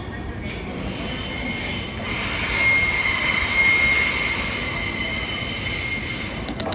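Train wheels squealing against the rails in a high, steady tone over the rumble of a train running along the track. The squeal rises about two seconds in and is strongest in the middle. A run of quick, regular clicks starts right at the end.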